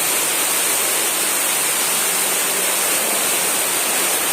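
Steady rushing of water at a swimming pool, an even noise without distinct splashes.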